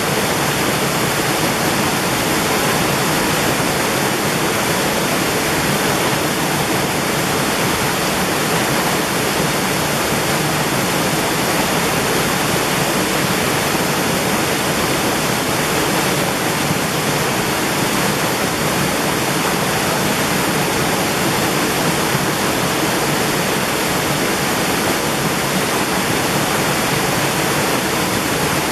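Mountain valley stream, its water rushing in a loud, steady, unbroken wash.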